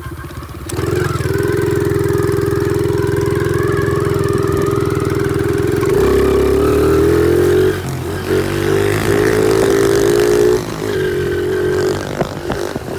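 Small pit bike engine running under throttle, steady at first, then revved louder and higher about halfway through, with the throttle eased off briefly twice before picking up again.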